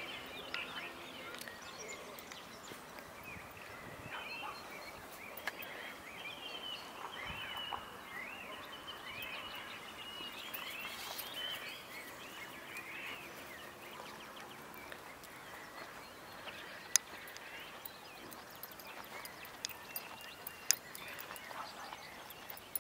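Birds chirping and twittering: many short rising-and-falling notes, thick through the first half and thinning after. A few sharp clicks stand out in the second half.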